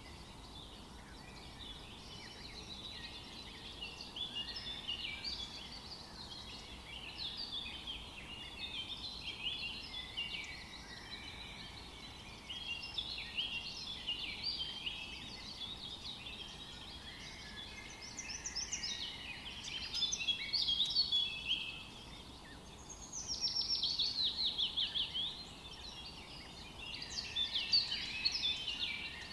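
A chorus of several birds singing and calling at once: many overlapping high chirps and short trills over a faint steady hiss, with a few louder rapid trills in the last third.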